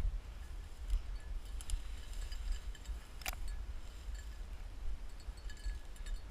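Low wind rumble on the microphone with faint rustling and light clinks, and one sharp tick about three seconds in.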